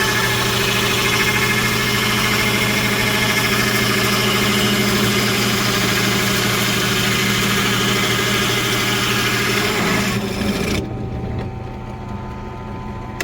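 Ryobi drill press running steadily as the bit bores slowly down through wood, a steady motor hum under a dense cutting noise. About ten seconds in, the cutting noise stops and the press runs on more quietly.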